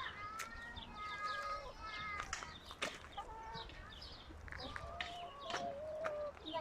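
Farmyard chickens clucking, with many short calls at different pitches overlapping and small high chirps between them.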